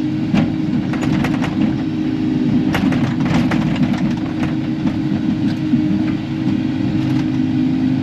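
Kubota KX080-4 excavator's diesel engine and hydraulics running steadily under work, with a few short knocks and clicks scattered through it.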